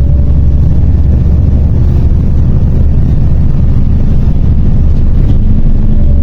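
MAZ 103 city bus running, heard from inside the passenger cabin: a loud, steady low engine and drivetrain rumble, with a faint whine that dips slightly in pitch at the start and again near the end.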